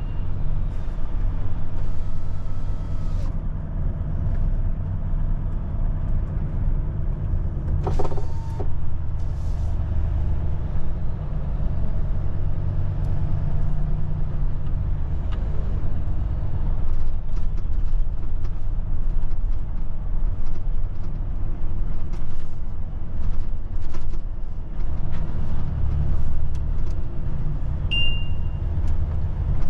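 Volvo truck's diesel engine running steadily with a low rumble, with scattered knocks and rattles and a short high beep near the end.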